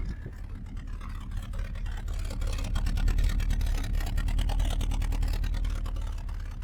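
Volkswagen GTI engine in a 1974 Passat, running with a steady rough rumble and getting louder over the first few seconds. It is running with its number 4 cylinder dead.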